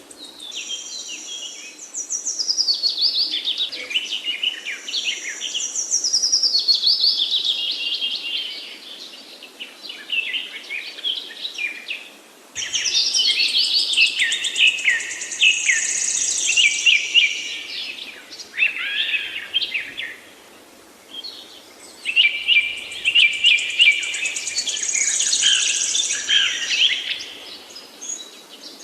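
Woodland songbirds singing: long, fast phrases of high trills and warbles in three bouts, with short lulls between.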